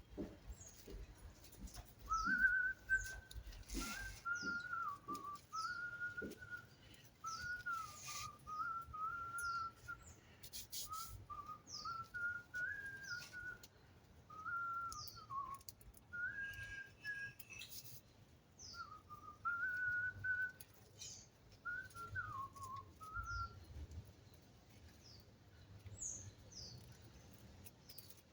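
A person whistling a wandering tune in short phrases, which stops a few seconds before the end. Short high falling chirps repeat about once a second throughout, and a few sharp knocks come in between.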